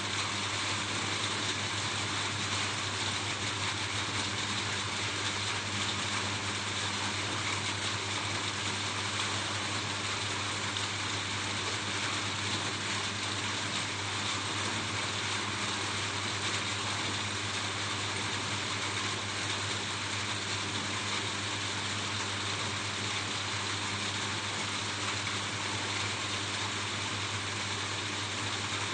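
Steady rain falling on a roof, an even hiss with a constant low rumble underneath.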